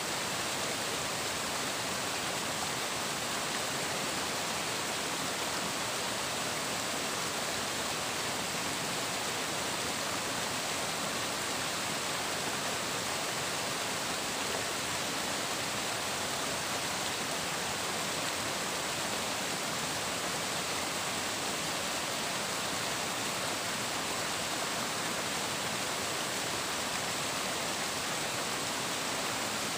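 Flowing water, a steady even rush of water with no breaks or changes.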